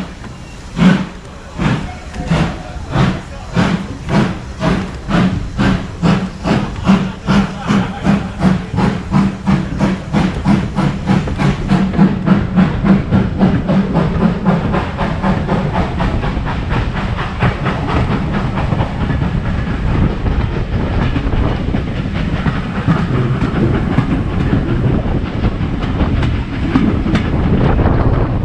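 Steam locomotive pulling away: its exhaust chuffs start slow, about one a second, and quicken steadily until, about halfway through, they blur into a continuous rush of running noise.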